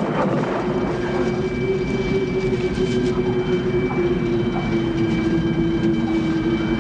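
Tornado roar: a steady, train-like rumbling din with a held droning tone running through it.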